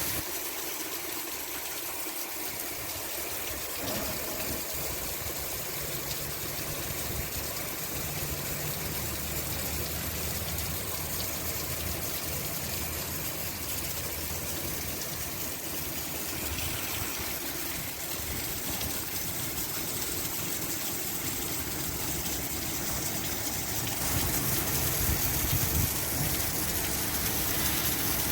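Steady rush of heavy rain and running rainwater, with a low engine hum beneath it through the middle part. It grows louder a few seconds before the end.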